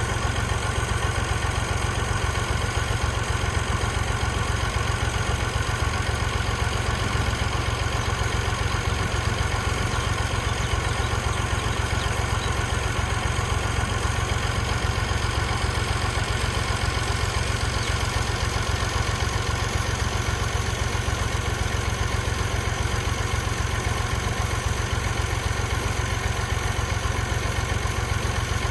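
Perkins three-cylinder diesel engine of a 1970 Massey Ferguson 135 tractor idling steadily, with an even, unchanging low pulse.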